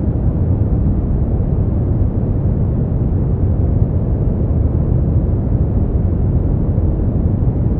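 Brown noise: a steady, deep rushing hiss, strongest in the bass and fading toward the treble, with no changes.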